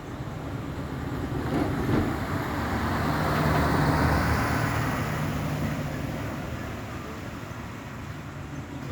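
A road vehicle driving past: its engine and tyre noise swells to a peak about four seconds in, then fades away.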